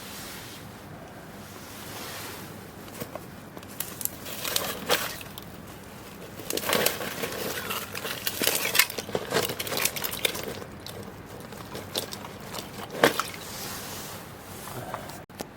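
Irregular clicks, taps and rustling over a steady faint hiss, busiest in the middle.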